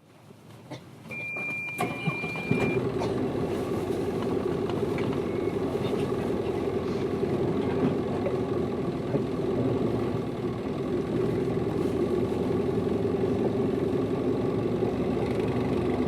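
Hino Liesse small bus's diesel engine running steadily, heard from inside the passenger cabin. About a second in, a steady high electronic beep sounds for under two seconds as the engine sound comes up.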